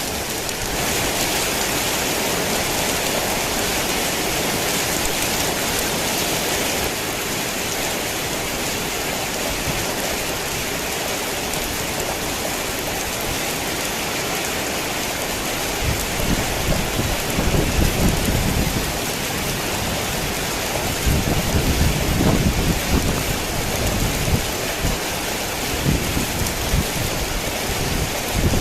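Heavy rain falling steadily in a constant hiss. From a little past halfway on, low rumbles of thunder come and go beneath it.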